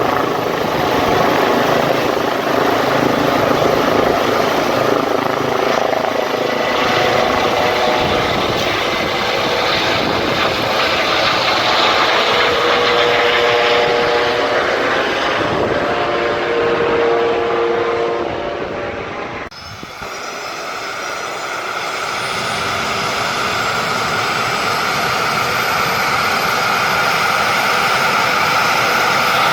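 Airbus EC135 helicopter running, its twin turbine engines and rotor making a loud steady sound. About two-thirds through the sound drops off suddenly, then builds again with a steady turbine whine and a high tone that slowly rises near the end.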